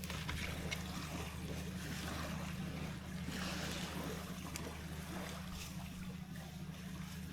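Steady outdoor wind and water noise, with a low rumble of wind on the microphone and a few faint scattered ticks.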